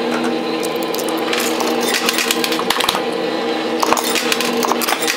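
Quarters clinking and dropping in a coin pusher arcade machine, a scatter of quick metallic clicks over a steady drone of held tones from the arcade.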